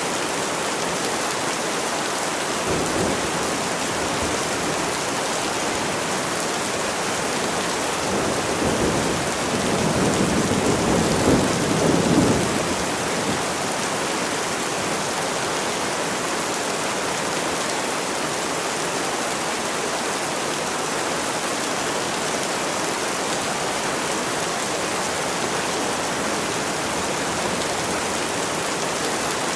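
Steady rain. A rumble of thunder swells from about eight seconds in and dies away by about twelve seconds, after a fainter rumble near the three-second mark.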